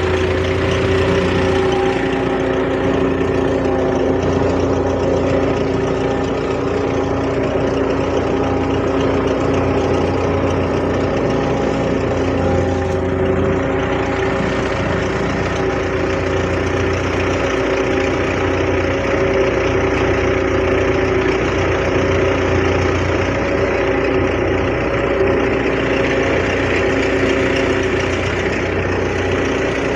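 Belarus 510 tractor's diesel engine running at a steady speed.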